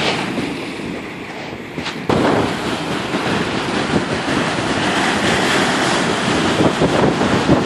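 Gale-force wind buffeting the microphone over heavy lake surf breaking against the shore and pier. It gets suddenly louder about two seconds in and stays loud and gusty.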